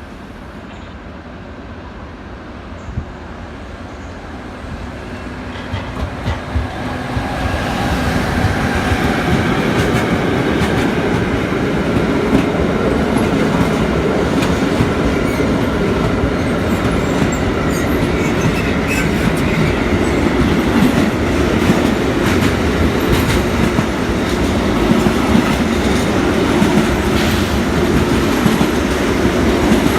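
A train passing through a station: its rumble grows louder over the first eight seconds, then holds loud as the wagons run by, with the wheels clicking over rail joints.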